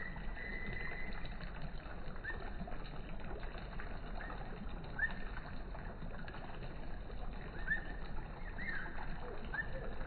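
Several short bird chirps, scattered irregularly, over a steady background hiss.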